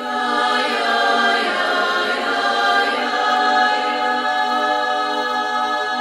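Throat singing: sustained droning voices holding long notes with strong overtones, with no drum beats.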